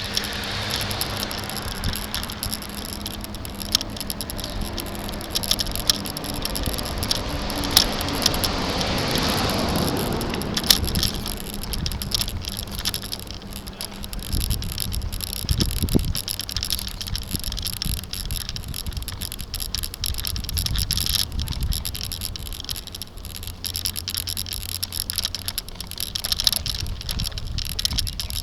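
Bicycle ride heard through a bike-mounted camera: steady rumble of tyres and road vibration with frequent small rattles and clicks from the mount, and a swell of louder noise about nine seconds in.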